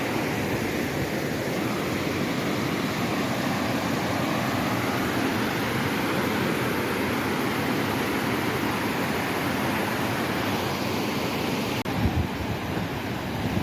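Steady rush of water from the Okavango River rapids at Popa Falls. About twelve seconds in, wind starts buffeting the microphone with low rumbling gusts.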